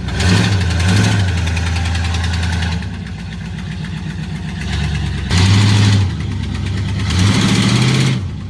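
A vehicle engine idling, with several short surges where it is revved or put under load.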